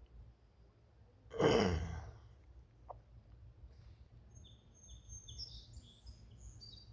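A person clears their throat once, loudly, about a second and a half in. Near the end a small bird sings a quick series of short, high notes.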